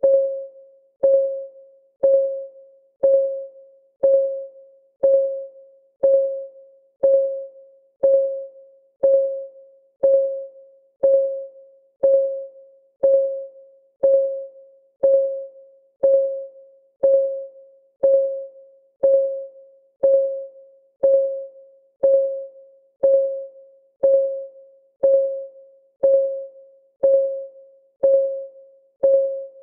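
Clock ticking on a countdown timer: a short, pitched tick about once a second, each dying away quickly, at a perfectly even pace.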